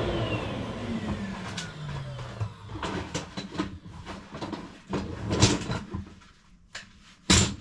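A vacuum cleaner motor winding down after being switched off, its whine falling in pitch and dying away over the first couple of seconds. Then come scattered knocks and clicks of stove parts being handled, with one sharp, loud clack near the end.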